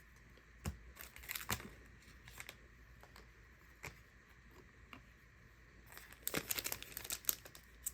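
A few soft clicks of trading cards being handled, then about two seconds in a row of crinkling and tearing near the end as a plastic card pack wrapper is torn open.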